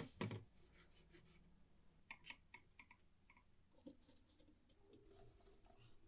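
Faint clicks of a typewriter mechanism being worked by hand: two sharp clicks at the start, a run of lighter clicks about two to three and a half seconds in, and a soft rustle near the end.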